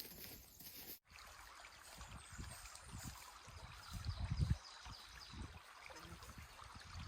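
River water running in a steady rush, starting after a sudden cut about a second in, with a few low rumbles midway.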